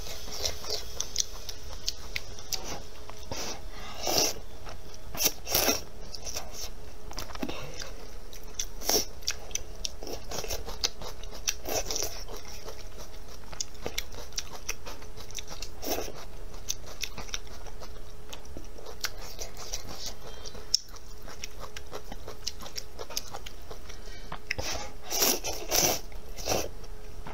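A person eating close to the microphone: chewing and biting, with short crisp crunches now and then and small clusters of them a few seconds in and near the end. A faint steady hum runs underneath.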